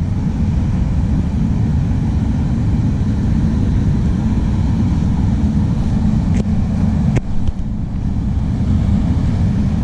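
Freight train's cars rolling past in a steady low rumble, mixed with wind buffeting the microphone. There are two faint clicks about six and seven seconds in.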